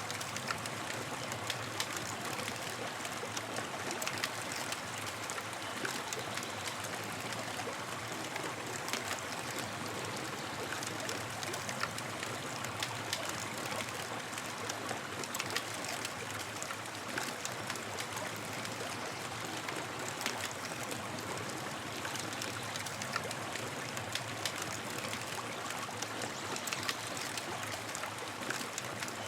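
Campfire burning: a steady hiss with frequent small, sharp crackles and pops scattered throughout.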